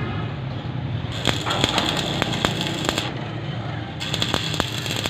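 Electric arc welding: a steady hiss and hum with irregular sharp crackles and clicks.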